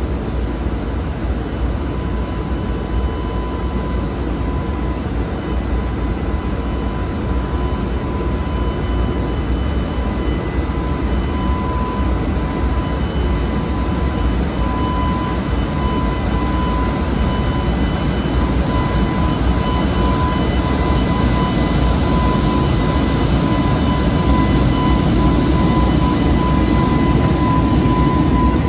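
EH500 electric locomotive hauling a container freight train slowly past: a steady low rumble of wheels on rail with a steady high whine over it, growing slightly louder as the wagons roll by.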